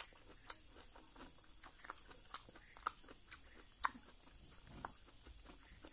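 A person chewing a mouthful of fish curry and rice close to the microphone, with soft wet smacks and mouth clicks at irregular intervals. The sharpest click comes a little under four seconds in.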